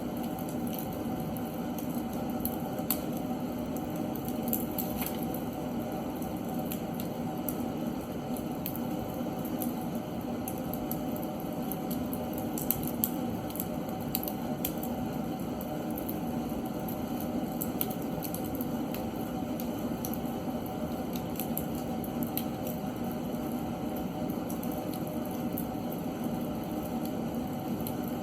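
Seasoned oak logs burning in a fireplace: a steady low rush of flame with frequent small, sharp crackles and pops at irregular intervals, a few of them louder.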